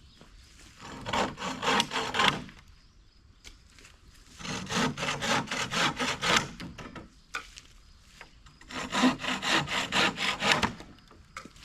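Hand saw cutting through wood in three bouts of quick back-and-forth strokes, each about two seconds long, with short pauses between.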